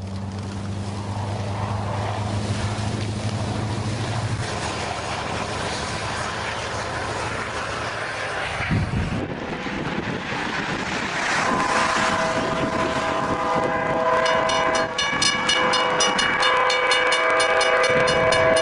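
Train ploughing through snow: a wide rushing noise over a low engine drone, with a thump about nine seconds in. The train's horn then sounds a long multi-note chord, held from about fourteen seconds to the end, with a fast regular ticking above it.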